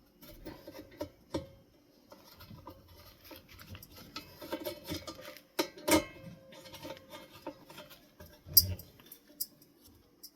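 Small clicks, taps and rustling from handling ceiling fan parts and screws on a desk, with a few sharper knocks of metal parts set down.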